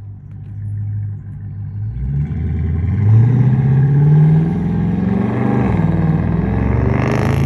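Dodge Charger R/T's 5.7-litre HEMI V8 through Blackwidow Widowmaker 10 mufflers with 5-inch tips, the engine note climbing in pitch and getting louder about three seconds in as it accelerates. It dips briefly a little before six seconds, then holds a steady, louder drone.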